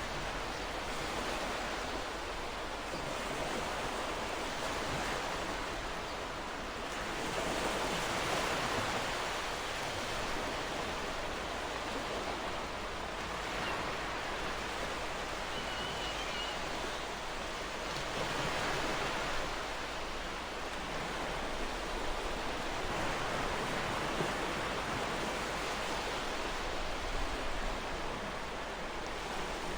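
Ocean waves breaking on a shore, a steady wash that swells every several seconds.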